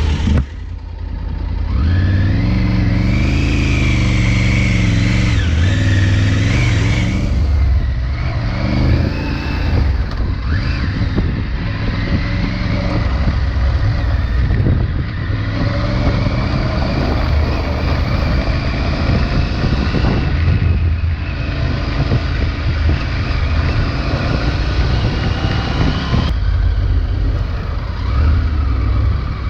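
Triumph Tiger 900 Rally Pro's three-cylinder engine on its stock exhaust, running under way off-road, its revs climbing and dropping again and again as the rider works the throttle.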